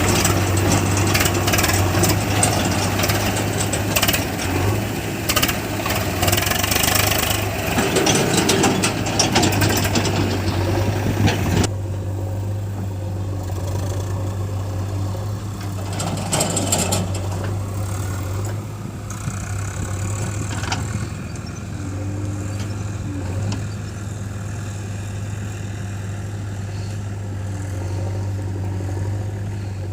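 Diesel engine of a JCB 3DX backhoe loader at work, running with a steady low hum. For about the first twelve seconds it is louder, with heavy clattering over it, which stops suddenly; then the engine runs on more quietly.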